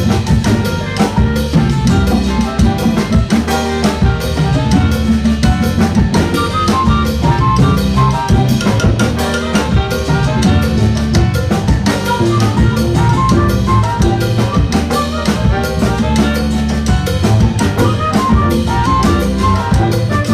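Latin big band playing live: brass and saxophones over drum kit, congas and timbales with piano and bass, in a salsa groove.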